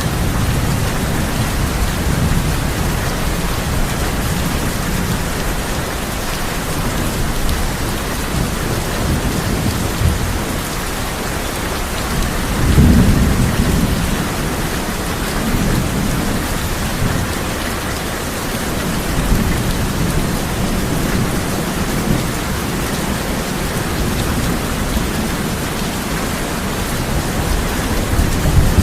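Heavy rain falling steadily on a tin roof, with rolls of thunder rumbling low several times, the loudest about thirteen seconds in.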